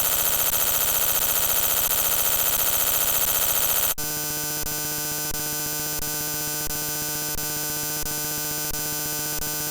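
Harsh electronic buzzing drone made of many steady tones stacked together. About four seconds in it switches abruptly to a different, slightly quieter steady tone, with faint pulses under it roughly every 0.7 seconds.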